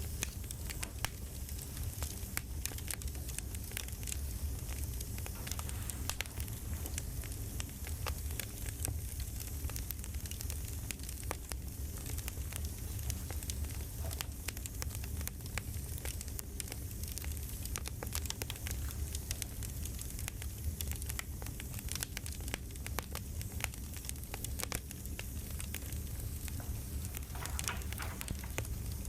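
Campfire crackling: a wood fire burning with a steady low rumble under many scattered small pops and crackles.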